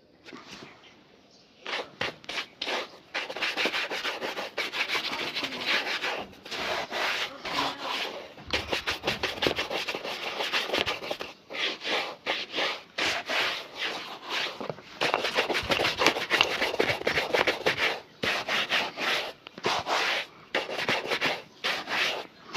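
A leather shoe being rubbed during polishing: quick back-and-forth strokes, in runs with brief pauses, starting about two seconds in.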